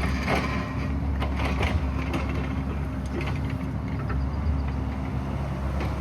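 Excavator's diesel engine running steadily under load, with a few short knocks and scrapes from the work scattered through.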